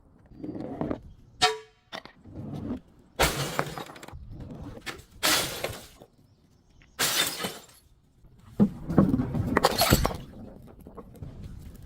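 Glass bottles shattering in a series of separate crashes, about five in all, each a sharp burst of breaking glass.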